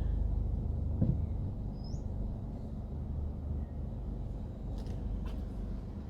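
Steady low rumble of a car driving slowly, with a short knock about a second in and a single rising bird chirp about two seconds in.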